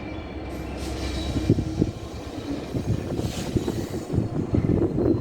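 A Class 66 diesel-electric locomotive running light engine, its two-stroke V12 diesel giving a low drone. Its wheels click and clack over the rail joints, and the sound grows louder as it approaches.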